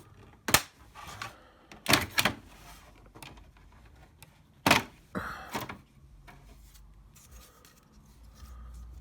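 Sharp plastic clicks and knocks, a handful spaced irregularly, as clips on an HP 3330 printer's plastic housing are pried and worked loose.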